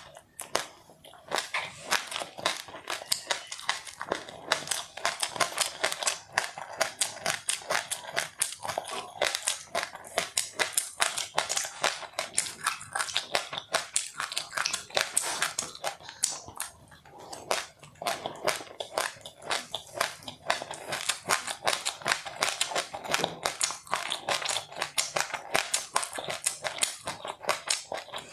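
A person chewing crunchy food close to the microphone: dense, rapid crackling crunches, thinning for a moment a few times.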